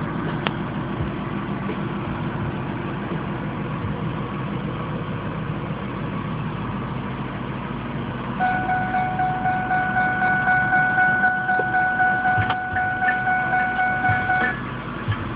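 A vehicle engine idling with a steady low rumble. Past the middle, an electronic warning chime sounds for about six seconds as one steady tone, pulsing about twice a second, then cuts off.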